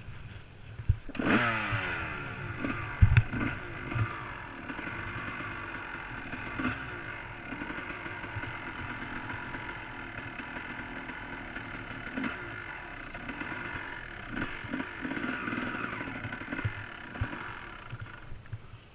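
Motocross bike engine revving up sharply about a second in, then running steadily, with scattered knocks and clatter.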